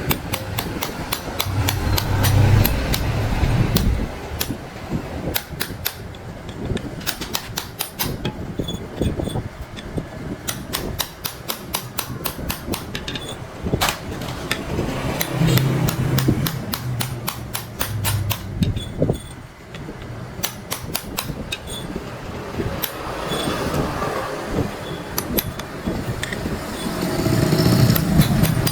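Irregular sharp taps and knocks of hand tools striking metal, in quick runs, with a low hum that comes and goes.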